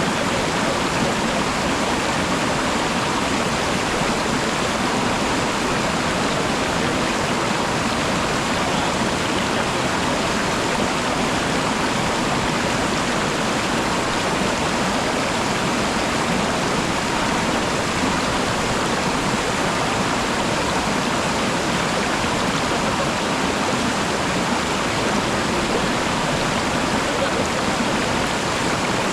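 Waterfall's rushing water, a steady unbroken rush.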